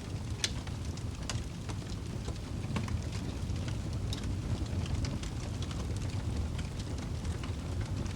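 Wood fire burning in a fireplace: a steady low rumble of the flames with scattered crackles and pops, a sharper pop about half a second in.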